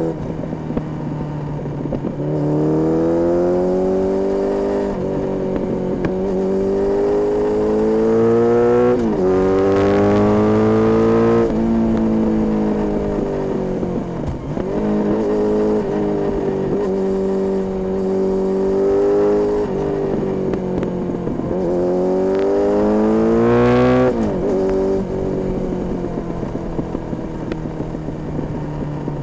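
Honda CB1300S four-cylinder engine through an Ixrace aftermarket exhaust, accelerating up through the gears: the pitch climbs and drops back at each shift. It then eases off and holds a steady cruise, pulls hard again near the end, and backs off.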